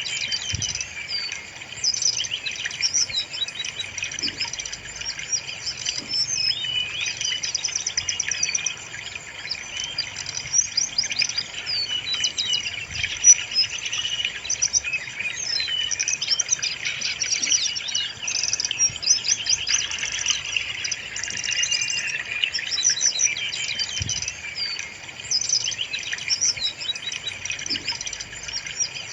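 Brown-chested jungle flycatcher song, a continuous stream of quick, high chirps and trills.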